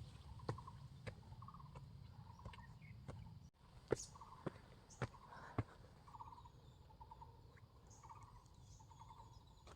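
Faint, short, rapid chattering trills from calling wild animals, repeated again and again, with scattered sharp clicks such as footsteps on gravel.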